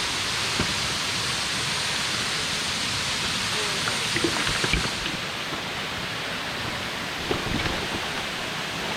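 Steady rush of a rain-swollen stream pouring over rocks, with a few faint knocks about halfway through.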